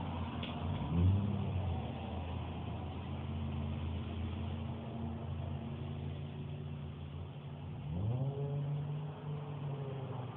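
1998 Mazda 626's 2.5-litre V6 exhaust through an aftermarket Apexi N1 universal muffler, idling with a short rev about a second in and a longer rev held briefly near the end.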